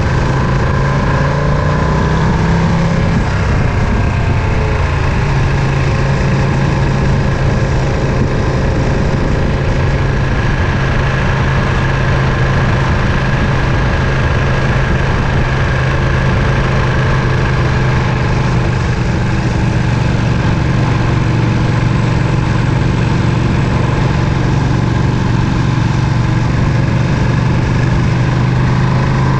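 Ducati Panigale V2's 955 cc L-twin engine running at a steady engine speed. Its note shifts slightly in the first few seconds, then holds even.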